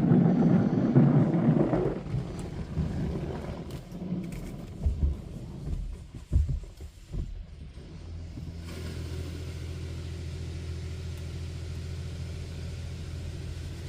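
Washworld Razor automatic car wash at work, heard from inside the car: a loud rush of spray that dies away after about two seconds, a few dull thumps, then a steady low mechanical hum from about nine seconds in.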